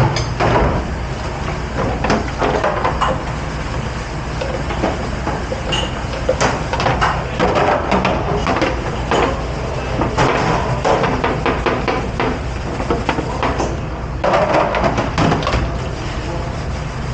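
Dishes, pans and racks clattering and knocking as they are handled in a commercial kitchen dish pit, over a steady low machine hum.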